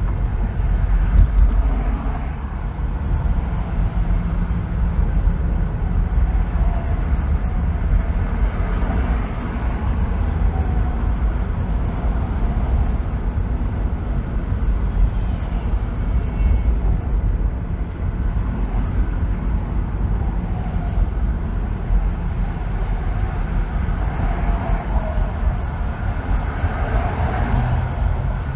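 Steady road noise of a car driving on a freeway: a constant low rumble of tyres and engine, with a few faint tones that slide down in pitch.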